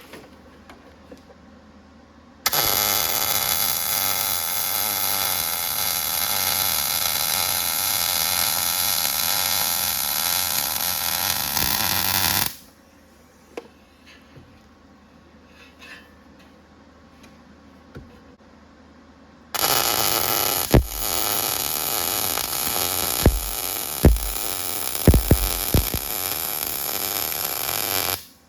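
Arc welding in two runs, about ten and nine seconds long, each a steady sizzling crackle that starts and stops abruptly. The second run has several sharp pops in it.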